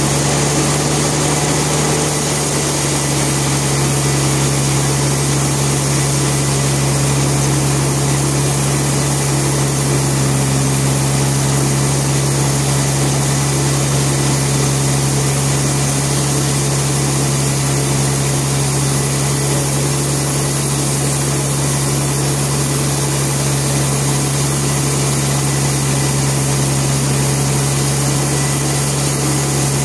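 Sawmill machinery running steadily, a loud constant drone with a strong low hum that does not change.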